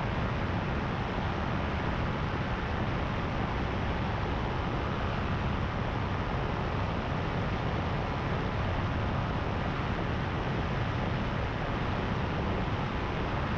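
Paramotor engine and propeller running steadily in cruise flight, with rushing wind on the microphone.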